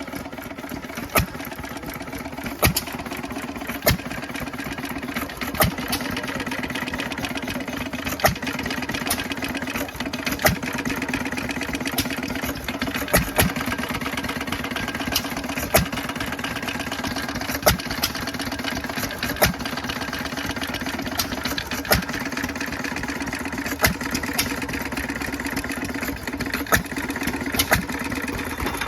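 Old stationary engine running, with a sharp bang from its exhaust about every one to two seconds, not quite evenly spaced, over a steady engine drone.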